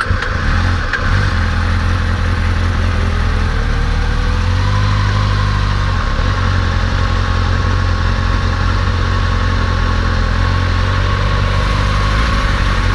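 Motorcycle engine running steadily at low revs, a loud, even low drone throughout.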